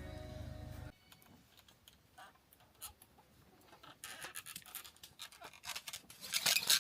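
Background music cuts off about a second in. Repeated scratching, rasping strokes follow, faint at first and growing louder and quicker toward the end.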